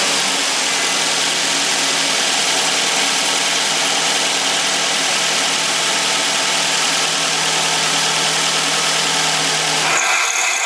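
Nissan X-Trail engine idling steadily with a grinding noise from the alternator, whose bearings are damaged. About ten seconds in the engine is switched off, and a higher-pitched grinding lasts about a second more as the alternator spins down.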